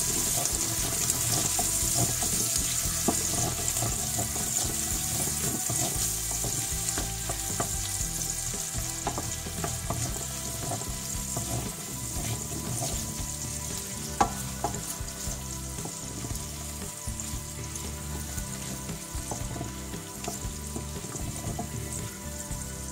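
Chopped onion and melting butter sizzling in a stainless steel pan, stirred with a wooden spoon that scrapes and taps against the pan, with one sharper knock about fourteen seconds in. The sizzle eases a little as it goes.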